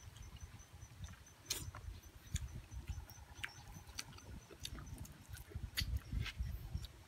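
Crunching bites and chewing of crispy fried chicken necks, heard as a scattering of sharp crisp clicks over a low rumble of wind on the microphone. A faint insect ticks steadily at a high pitch in the first half.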